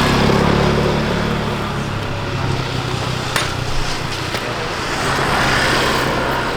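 Road traffic noise with a motor vehicle engine running close by, its low hum strongest at first and fading after about two seconds. A sharp click a little past three seconds in.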